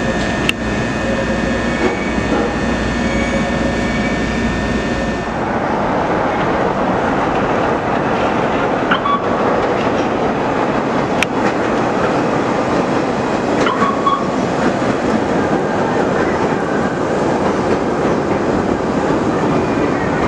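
CTA electric rapid-transit train. At first a steady running hum with thin high tones. About five seconds in the sound changes abruptly to the train rumbling along the platform, with its wheels clacking over rail joints and giving brief squeals.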